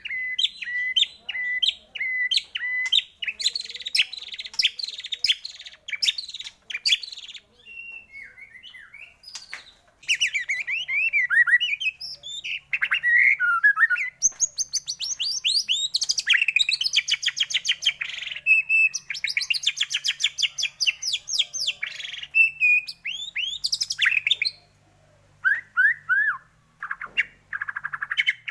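White-rumped shama (murai batu) singing a long, varied song: repeated whistled notes, fast rattling trills and sweeping upward and downward whistles, with brief pauses near the end.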